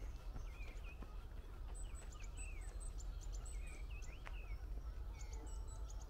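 Small birds calling: many short chirps that bend down in pitch, mixed with brief thin high notes, over a low steady background rumble.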